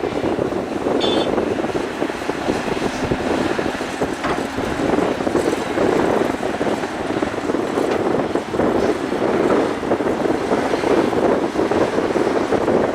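Excavator engine running steadily, with wind noise on the microphone. A brief high-pitched squeak about a second in.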